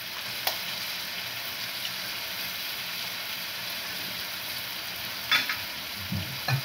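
Food frying steadily in pans on a gas stove, an even sizzle. A sharp tap comes about half a second in, and a short cluster of clicks and clinks about five seconds in.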